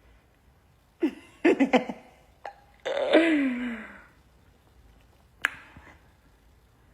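A woman's wordless vocal sounds: a few quick pitched noises about a second in, then a longer sound that falls in pitch, with two sharp clicks between them.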